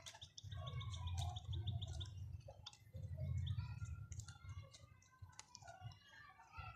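Pet parrots chattering with short chirps and clicks, including a rapid clicking trill in the first second. A low rumble comes twice and is louder than the birds.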